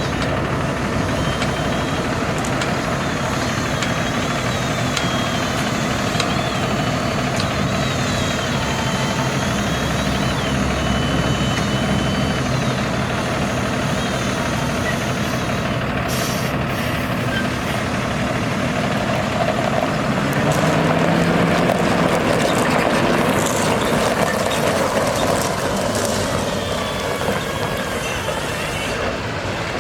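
Dump truck's diesel engine running steadily, its pitch and loudness rising about two-thirds of the way through as it revs.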